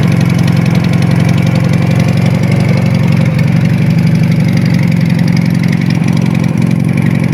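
Retro motorcycle engine running steadily, its speed holding even with a fast regular firing pulse.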